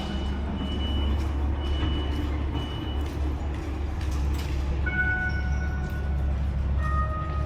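High electronic beeping, about once a second, over the steady low hum of an idling large vehicle, like a reversing warning. The beeping stops about three seconds in, and other electronic tones at several pitches sound near the middle and again near the end.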